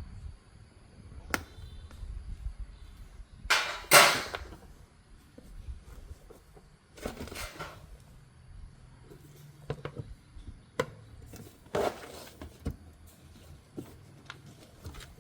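Irregular work noises of parts and tools being handled: scattered clicks and knocks with a few short rustling or scraping bursts, the loudest about four seconds in.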